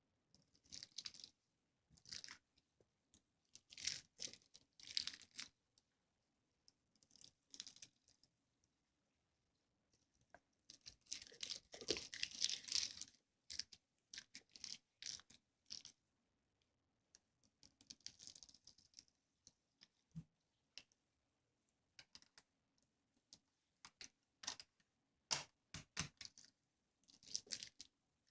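Faint, irregular crunching and crinkling noises in short clusters with brief gaps between them.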